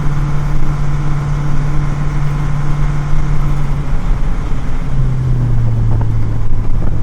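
Grain truck engine running steadily, heard from inside the cab; its low hum drops in pitch about five seconds in as the revs fall.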